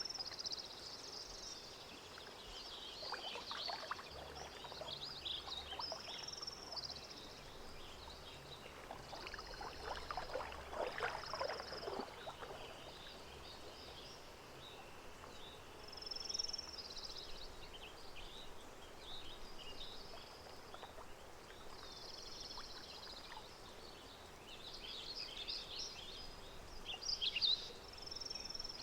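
Lake-side nature ambience: small birds chirping and calling over and over, with gentle water trickling and splashing in two spells, about three seconds in and again around ten to twelve seconds in.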